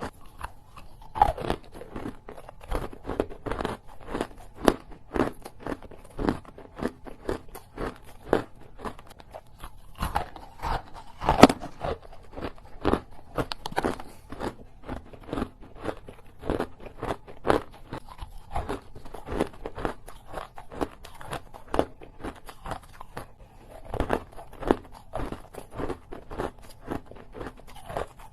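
A person biting and chewing small pieces of hard ice, a dense run of crunching and cracking bites, with a loud crunch about eleven seconds in.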